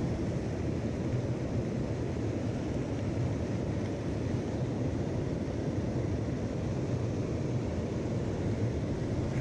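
Mountain stream rushing over rocks: a steady, even rush of water, deepest in the low end.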